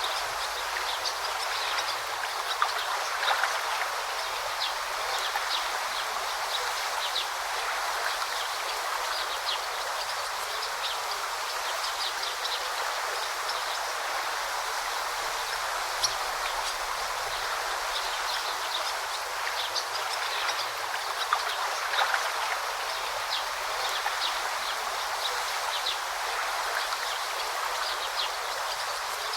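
A river running steadily over rocks, with many short high bird chirps scattered over it.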